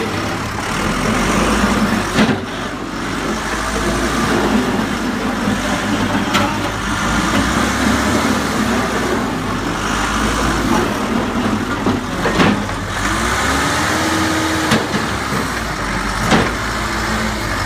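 Case 580L backhoe loader's diesel engine running steadily, with several sharp clanks and a brief whine that rises and falls about three-quarters of the way through.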